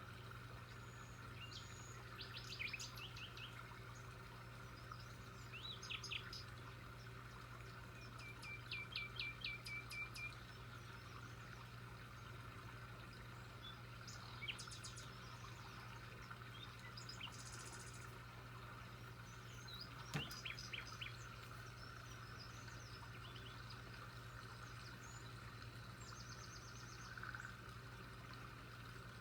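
Birds chirping: short runs of quick, high chirps every few seconds, the longest a string of about seven notes, over a steady low hum.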